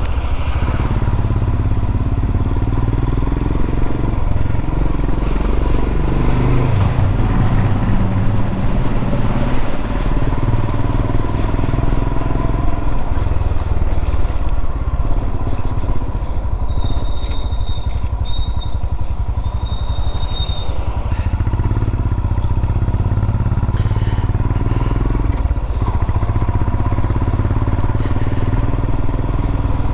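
Royal Enfield Himalayan's single-cylinder engine running at riding speed, a steady low engine note heard from on the bike.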